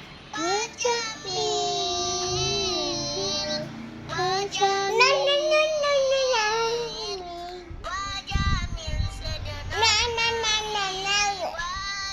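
A young child singing in long, wavering, high notes that slide up and down, without clear words. There are a few short pauses, and low thuds come in beneath during the second half.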